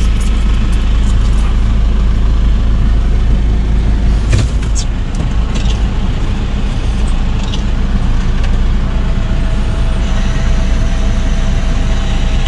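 Engine idling with a steady low rumble, heard from inside a Toyota van's cab, with one sharp click about four seconds in.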